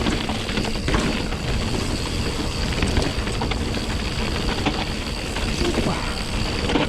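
A mountain bike on Pirelli Scorpion tyres rolling over wet, rocky singletrack. The tyres run on rock and roots while the chain and frame rattle with many small clicks and knocks, over a steady low rumble of wind on the microphone.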